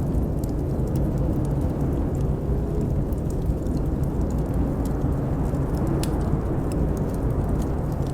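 Steady deep rumble of blizzard wind with a faint, wavering howl, and the irregular sharp crackles and pops of a wood fire burning in a fireplace.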